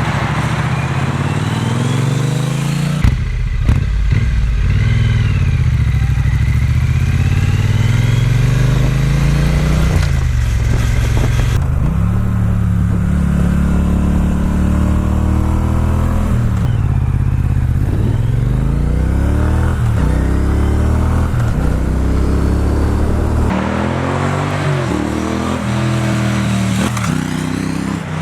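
Triumph Bonneville T120's 1200 cc parallel-twin running through British Customs Sleeper Pro slip-on exhausts while being ridden, the catalytic converter left in place. The engine note rises under acceleration and drops at each gear change, over and over, with a few abrupt changes in the sound.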